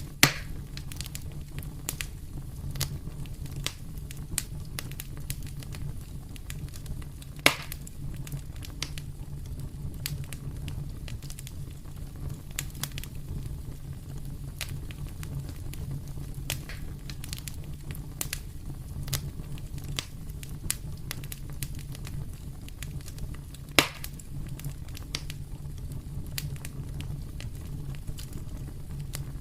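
Fire in a fireplace crackling steadily, with a constant low rumble underneath. Three louder pops stand out: one right at the start, one about a quarter of the way in, and one about four-fifths of the way through.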